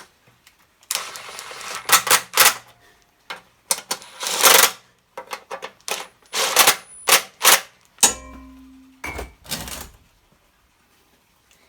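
Hand tools and metal engine parts clicking and clattering in a series of sharp knocks and rattles, with a short low hum about eight seconds in.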